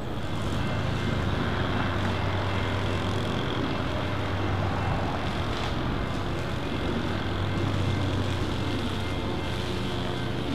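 Train running by with a steady low diesel engine drone and rolling noise.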